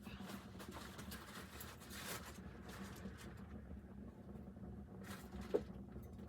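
Soft scuffing and rustling with scattered light clicks, and one sharp knock about five and a half seconds in.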